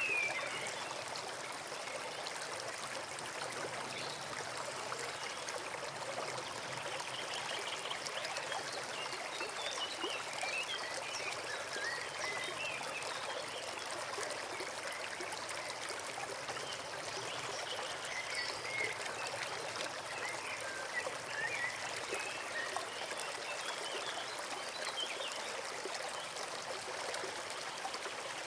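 A forest brook running and trickling steadily, with small high chirps scattered through it.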